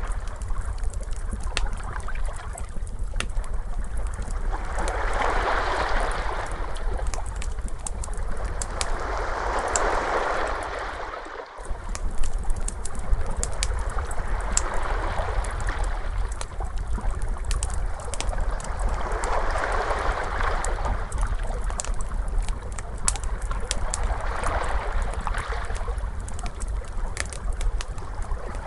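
Ocean waves washing in about every four to five seconds over a steady low rumble, with a wood fire crackling throughout. The whole sound drops out briefly about eleven seconds in.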